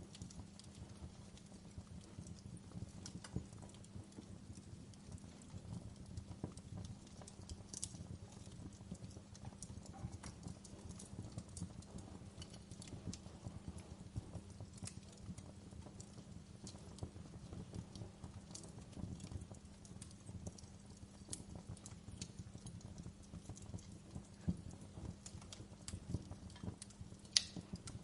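Wood fire crackling, with many small pops over a low steady rumble. A few louder snaps stand out, the loudest near the end.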